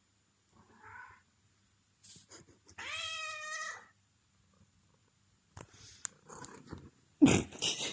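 Black cat giving one long, loud meow, a demand for food, about three seconds in, after a faint softer sound. Near the end a sudden loud noisy burst follows.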